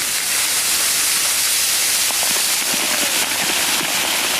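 Freezing rain falling: a steady hiss with faint scattered ticks of drops striking.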